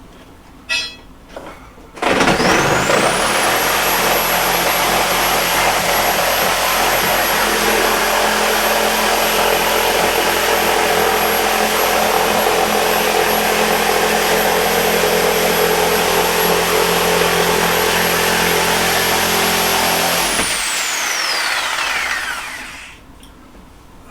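Handheld electric power tool spinning up with a rising whine about two seconds in, running steadily at full speed for about eighteen seconds, then released and winding down with a falling whine.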